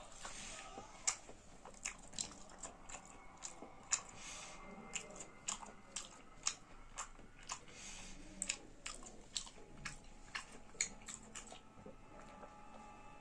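A person chewing and crunching food close to the microphone, with many sharp, irregular crackly clicks, about two or three a second.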